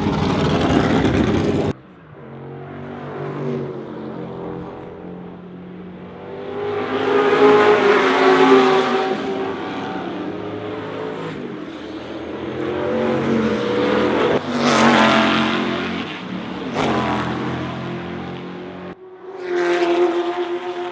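Pre-1966 sports-racing cars such as the Ford GT40 and Lola T70 at speed on a circuit, their engines swelling and fading as cars pass, about three times. There is a sudden cut in the sound early on.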